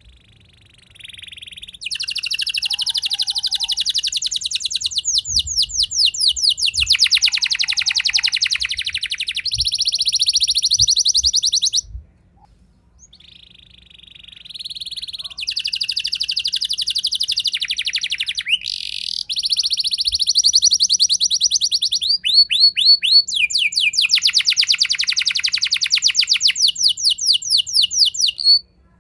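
Domestic canary singing long phrases of fast rolling trills, the 'roll' song style. There are two long phrases, with a short break about twelve seconds in.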